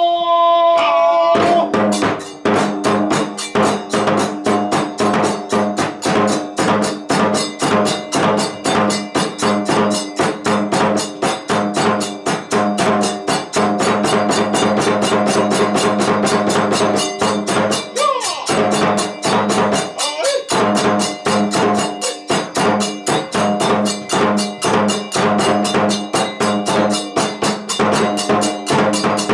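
Kagura accompaniment: a fast, steady drum and percussion beat, several strikes a second, over held pitched tones.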